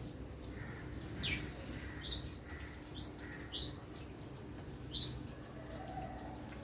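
A bird chirping: five short, sharp, high chirps spread over a few seconds, each dropping quickly in pitch, over a faint steady hum.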